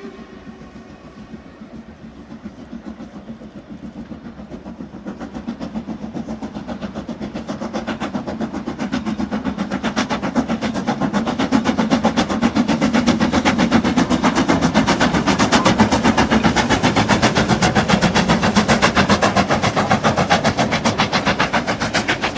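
Steam locomotive hauling a train, its exhaust beating in a rapid, steady rhythm that grows much louder as it draws near and then stays loud. A whistle tails off in the first second or so.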